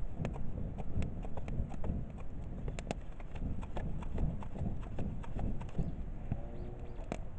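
Wood fire crackling in a kamado (masonry cooking hearth): irregular sharp pops and snaps over a steady low rumble of the flames.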